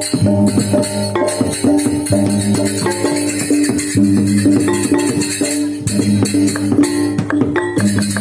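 Balinese gamelan music: bronze metallophones playing a fast repeating figure over rapid, continuous clashing of small cymbals.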